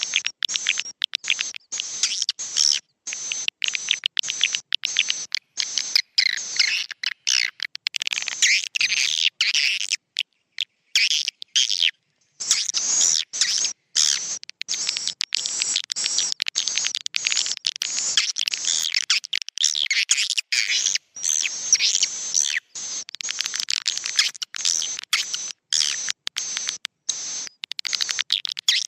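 Swiftlets twittering: a dense stream of rapid, high chirps chopped into short bursts, thinning to a brief lull about ten to twelve seconds in. It is a recorded roosting call, used as a lure to draw swiftlets into nesting houses.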